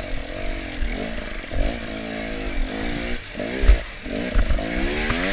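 Dirt bike engine revving up and dropping back again and again as it climbs over slippery rocks, with short low thumps.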